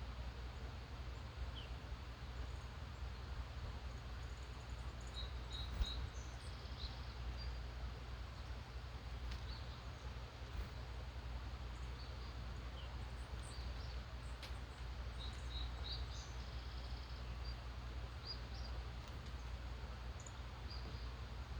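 Faint, scattered chirps of distant songbirds in the dawn chorus, over a steady background hiss and low hum. A single sharp click about six seconds in.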